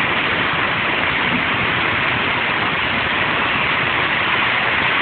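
Tornado wind and heavy rain, a loud, steady rushing noise that holds without a break.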